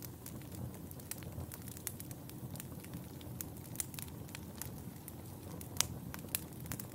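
Wood fire crackling in a fireplace: a dense, irregular run of small sharp pops and snaps over a steady low rumble of the flames, with a louder pop near the end.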